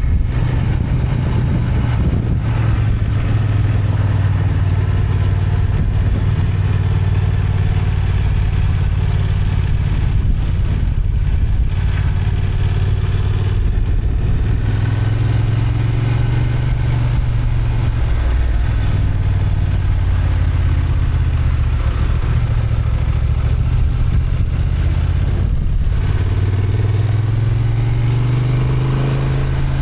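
Honda XL750 Transalp's 755 cc parallel-twin engine running under load on the move. Its note rises and falls with the throttle, easing off about two-thirds of the way through and climbing again near the end.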